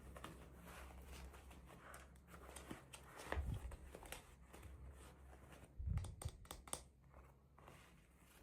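Quiet hand-handling of toy packaging: plastic and paper crinkling and rustling with scattered small clicks, and soft thumps about three and a half and six seconds in.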